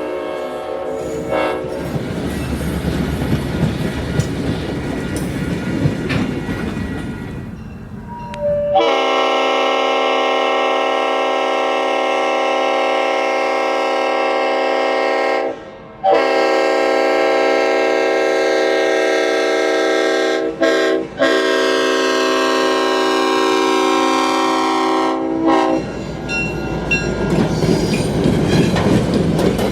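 Leslie RS5T five-chime horn on a GP38-3 diesel locomotive. A blast ends about a second in, then come two long blasts of roughly six and nine seconds, the second broken twice near its middle. Between and after the blasts the train rumbles past, its wheels clicking over the rail joints.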